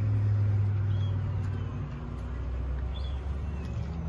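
A vehicle engine running as a steady low hum, which eases off about two seconds in. A couple of faint bird chirps sound over it.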